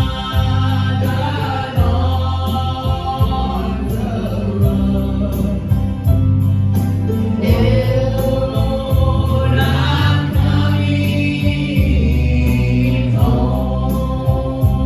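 Gospel vocal group singing with instrumental accompaniment under a steady, sustained bass.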